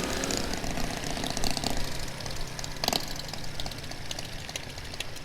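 Honda C90's small single-cylinder four-stroke engine running as the motorbike rides along, heard from the rider's position, with a steady rush of noise and a single click about three seconds in.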